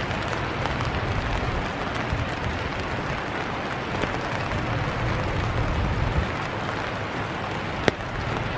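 Steady hiss of rain falling, with a low rumble underneath. A single sharp click stands out near the end.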